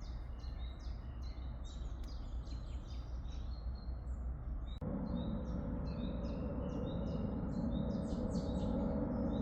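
Small songbirds chirping rapidly and continuously over a steady low background noise. About halfway through, the background suddenly gets louder and a low steady hum comes in beneath the chirps.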